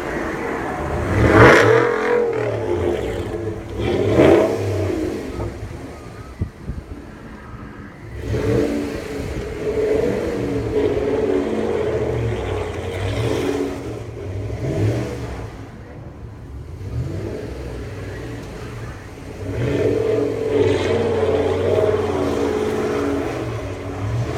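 2017 Ram pickup's 5.7-litre Hemi V8 through a Corsa exhaust, revving hard as the truck does donuts. There are two short, sharp surges near the start, then longer spells of held revs that rise and fall, with lulls between them.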